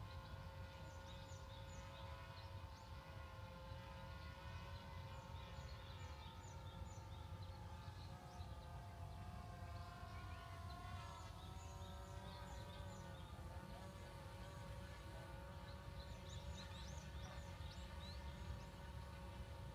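Faint outdoor ambience: small birds chirping over a low rumble and a steady hum that wavers slightly in pitch partway through.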